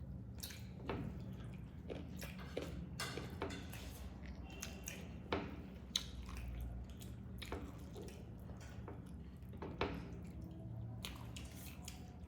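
Close-up eating sounds of chicken curry and rice being chewed: wet, squishy mouth noises and smacking with scattered sharp clicks, the sharpest about five and six seconds in and again near ten seconds.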